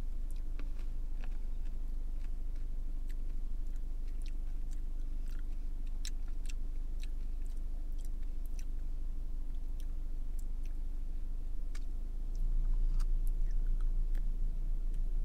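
A person chewing a spoonful of milkshake with bacon chunks in it: soft, scattered mouth clicks and smacks. Under it is a steady low hum that gets louder about twelve seconds in.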